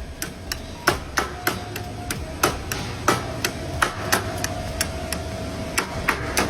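Repeated sharp knocks, irregular, roughly two or three a second, over a steady low hum.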